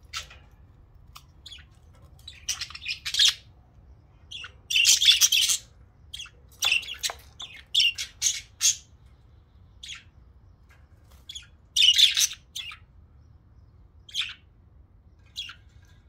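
Several budgerigars chirping and chattering in short, scratchy, high-pitched calls that come in irregular clusters, loudest about five seconds in and again around seven to nine and twelve seconds.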